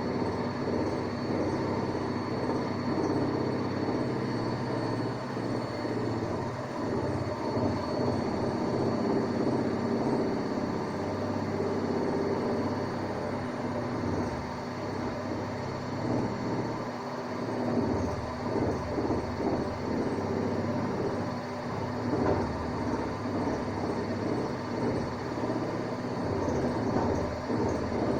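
Hanseatic washing machine on its spin cycle, loud, with a steady hum, a faint high whine and an uneven rumbling rattle from the drum.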